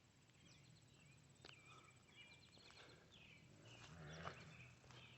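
Faint outdoor ambience of songbirds chirping and trilling in short repeated phrases, with a couple of soft knocks.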